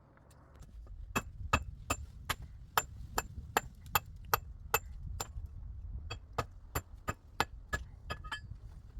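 A hand tool striking hard material in a steady rhythm, about two to three blows a second, each with a short metallic ring. A run of about a dozen blows is followed by a brief pause and then a shorter run.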